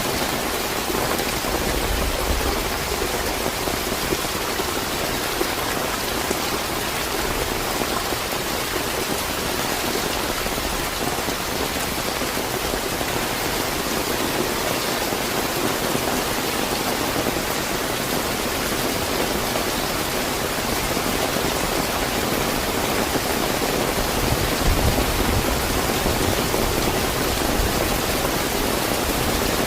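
Steady, fairly heavy rain falling and pattering on surfaces, with a brief low rumble swelling in near the end.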